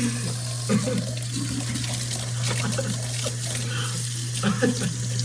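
Kitchen tap running steadily, with a few short, faint voice sounds from someone nearby.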